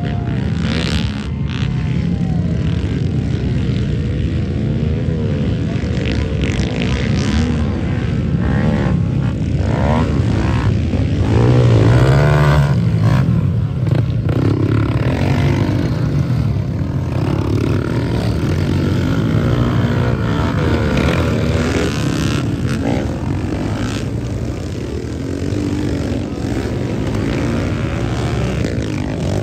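Pit bike engines revving up and down through the gears during a race, their pitch rising and falling continuously, loudest about twelve seconds in.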